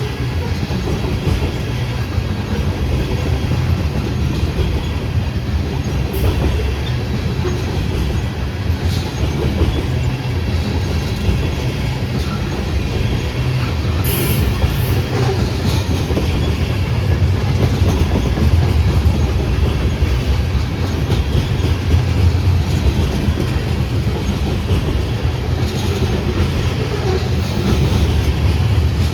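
A train rolling past: a steady, loud rumble of wheels on rail, with clickety-clack over the rail joints and a short high-pitched squeal about halfway through.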